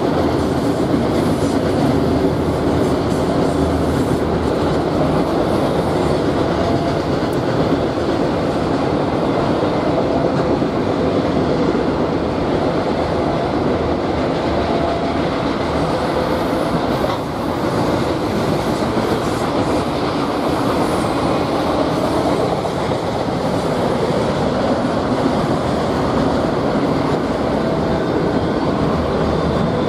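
Freight train cars rolling past, a steady loud rumble with wheels clattering on the rails.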